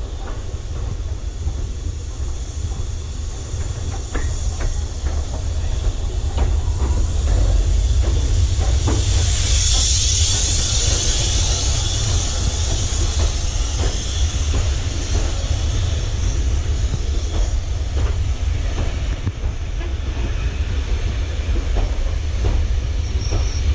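A train running close by: a steady low rumble with scattered clicks of wheels over rail joints, and a hiss that swells about ten seconds in and then slowly fades.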